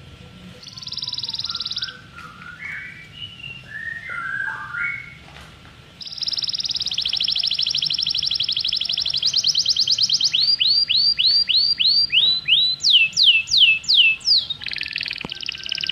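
A songbird singing a varied song. It opens with a fast high trill and short chirpy notes, then has a long trill from about six seconds in, then a series of downward-sweeping whistles that grow louder, and the trill returns near the end.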